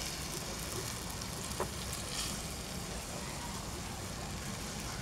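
Tofu, tempeh and vegetables sizzling steadily in a wok as thick coconut milk is poured in, with one light click about one and a half seconds in.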